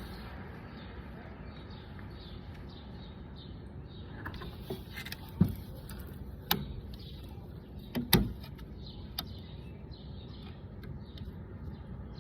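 Flat shale rocks on a lakeshore clicking and cracking in a scatter of sharp knocks, the loudest about five and eight seconds in. Underneath is a steady low outdoor rumble.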